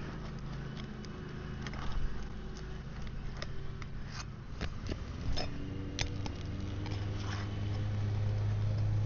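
Roofing nails being pried out from under lifted asphalt shingles: scattered sharp clicks and short scrapes. A low, steady engine hum grows louder over the second half.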